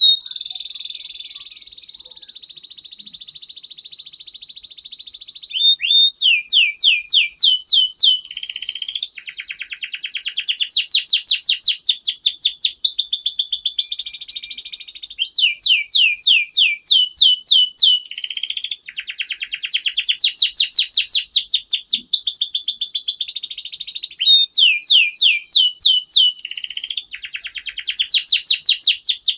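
Domestic canary singing a long, unbroken song. It opens with a held high note of about five seconds, then runs into rapid series of repeated falling notes alternating with buzzy rolls.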